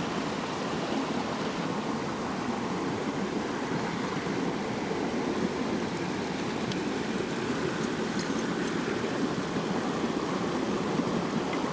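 Creek water rushing steadily, an even wash of running-water noise, with a few faint light clicks about seven and eight seconds in.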